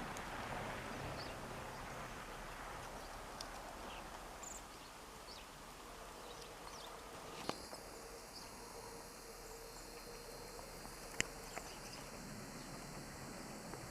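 Faint outdoor ambience with a few brief, high bird chirps scattered through it and two sharp clicks, the first about halfway through and the second near the end.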